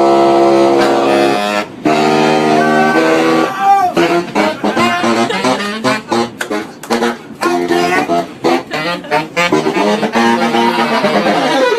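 Saxophone playing a solo line: long held notes at first, then fast runs of short notes, settling back into held notes near the end.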